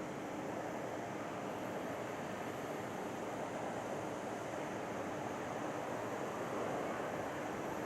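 Distant jet airliner engines: a steady rushing noise that slowly grows louder.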